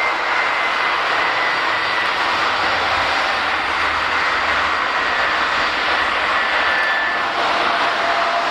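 Twin turbofan engines of a Boeing 767-300ER running loud and steady during a takeoff. A high whine rides on top and slowly falls in pitch.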